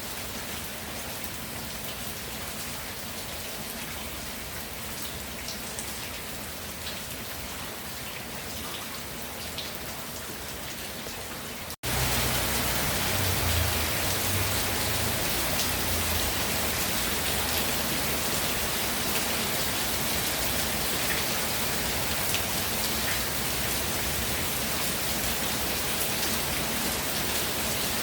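Steady rainfall with scattered raindrop ticks. About twelve seconds in, the sound cuts out for an instant and comes back as louder, heavier rain, with a low rumble for a few seconds just after.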